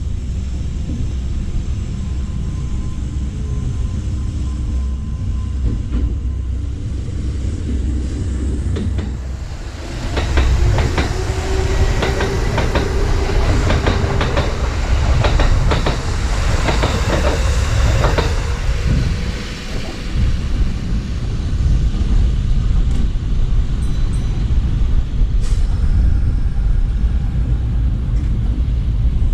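Kintetsu red-and-cream commuter train passing on the adjacent track, its wheels clicking rapidly over the rail joints for about eight seconds, starting about ten seconds in, with a faint motor whine. A steady low rumble runs before and after the train.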